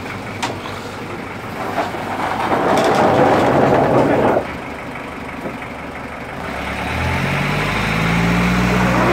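Toyota Land Cruiser Prado's engine running, with a loud rushing noise for about two seconds in the middle; near the end the revs climb in steps and the engine gets louder.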